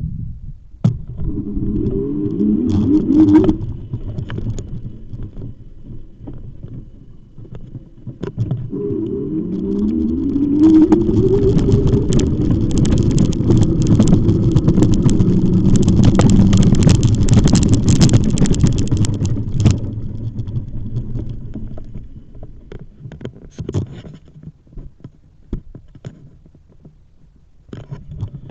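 Electric bike motor whining and rising in pitch twice as the bike picks up speed, followed by a long stretch of rushing noise while riding.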